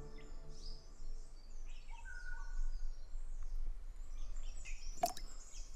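Forest birds calling: many short, high chirps and quick sweeping notes overlapping, with a few brief whistled notes about two seconds in and a sharp click about five seconds in.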